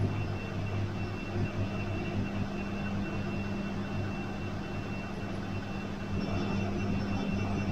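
Bosch washing machine running: a steady motor hum with a faint high whine over it.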